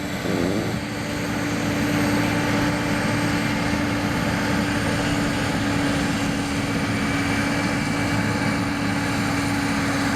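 A four-wheel-drive unlimited-class pulling tractor's engine running flat out under heavy load as it drags the weight sled down the track, holding a steady pitch.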